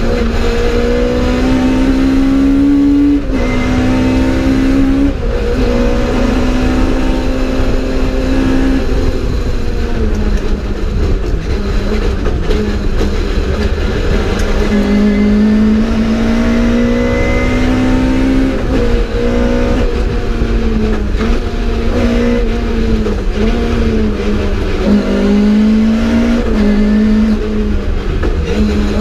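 Mk2 Ford Escort rally car engine heard from inside the cabin, driven hard: the revs climb and then drop sharply at each gear change, over and over, under a constant road and drivetrain rumble.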